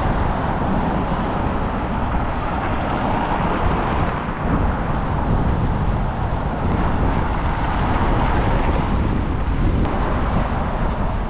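Steady roar of city road traffic, with wind buffeting the microphone.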